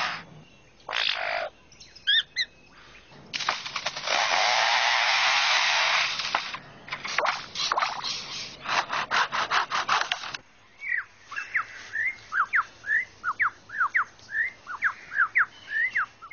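Superb lyrebird mimicking chainsaws: harsh, noisy bursts, one held for about three seconds, then a rapid rattle. It moves into a run of quick sweeping whistled notes over the last five seconds.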